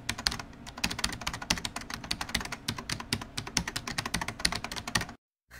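A rapid, uneven run of sharp clicks, many a second, that stops abruptly about five seconds in.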